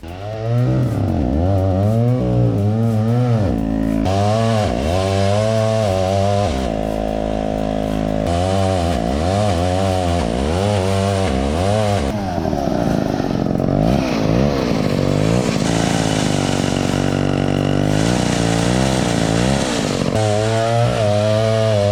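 Heavy vintage chainsaw with a 36-inch bar, running at high revs while cutting a tree. Its engine pitch repeatedly dips and rises, about once a second, as the chain loads and frees in the cut.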